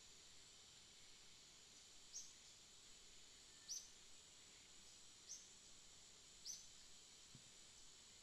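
Near silence broken by four short, high bird chirps about a second and a half apart, over a steady faint high hiss.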